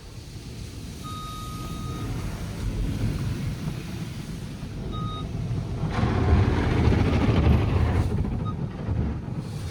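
Tunnel car wash equipment heard from inside a car: a steady low rumble, building to a loud rushing wash against the car about six seconds in that eases off near the end. A steady high electronic beep sounds for about a second, about a second in, and again briefly about five seconds in.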